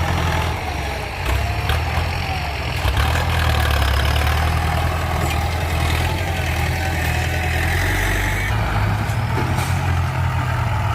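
Ford 6610 tractor's four-cylinder diesel engine running steadily under load as the tractor pushes soil, a loud continuous low drone that shifts in pitch about eight and a half seconds in.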